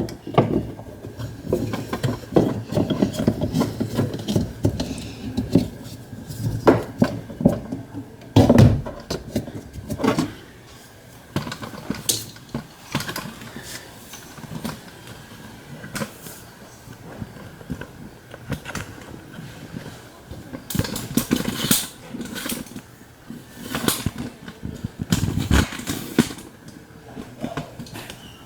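Irregular clicks, knocks and rubbing as a washing machine's drive belt and pulley are turned and handled by hand, with a louder knock about eight seconds in.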